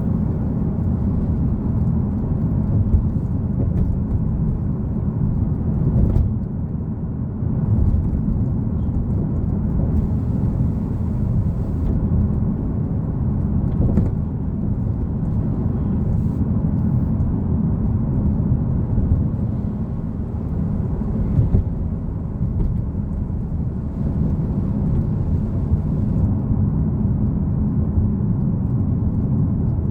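Nissan Fairlady Z (Z34) with its 3.7-litre V6 driving at a steady pace: a continuous low engine and road rumble, easing off briefly about six seconds in.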